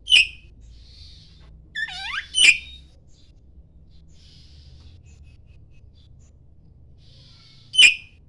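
Oriental magpie-robin singing: three loud, sharp notes, one near the start, one a little after two seconds and one near the end. Just before the second note comes a quick run of falling whistled notes, with soft chattering between the notes.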